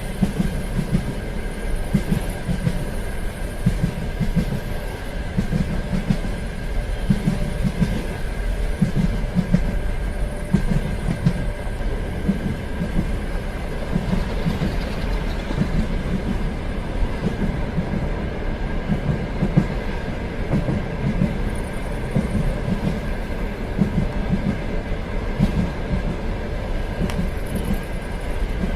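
Train running along the track: a steady rumble with a repeating low wheel clatter over the rail joints and a steady high whine.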